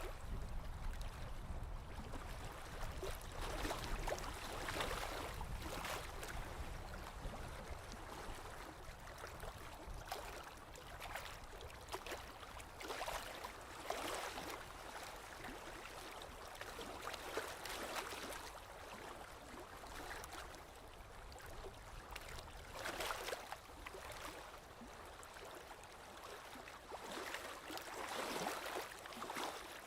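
Small waves lapping on a lakeshore: soft, irregular splashes every second or two over a steady wash of water.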